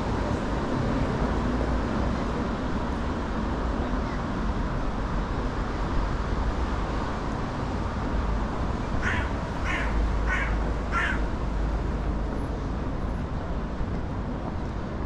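Steady street traffic noise; about nine seconds in, a bird gives four short calls in quick succession.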